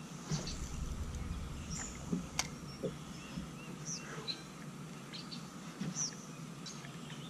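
Birds chirping with short, scattered notes over steady low background noise, with one sharp click about two and a half seconds in.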